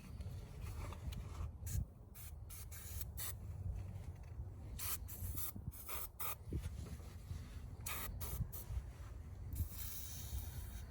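Aerosol spray can hissing in a series of short bursts, with a longer spray near the end, as a coating layer is applied over the battery tray.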